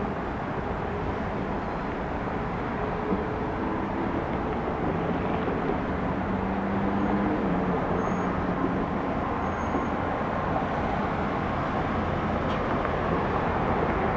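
Jet airliner engine noise, a steady rushing roar with a low hum, growing slowly louder.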